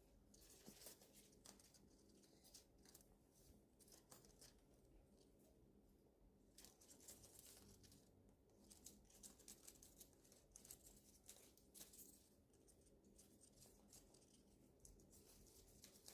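Faint, irregular rustling and small crisp tearing sounds of eucalyptus leaves being picked at and nibbled by budgies.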